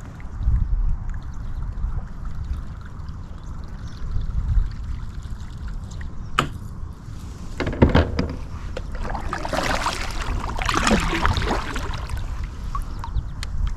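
Water splashing and trickling around a fishing kayak, with a couple of sharp knocks about six and eight seconds in and a longer stretch of splashing a little after, over a steady low rumble.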